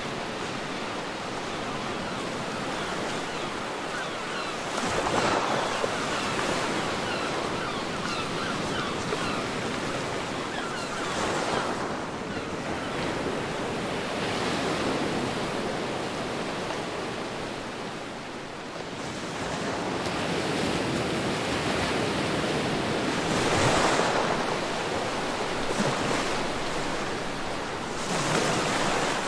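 Ocean surf on a beach: a steady wash of water noise with several waves breaking, each a swelling hiss, at irregular intervals of a few seconds.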